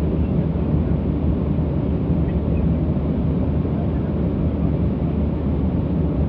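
Steady low drone of jet engines and rushing air heard inside the cabin of a Boeing 737 airliner in flight.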